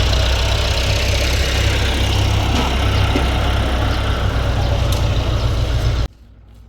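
Engine of heavy machinery running steadily with a deep drone; the sound cuts off abruptly about six seconds in.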